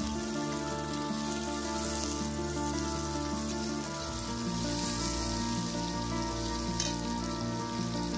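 Food sizzling as it fries in hot oil, under background music of held, changing notes.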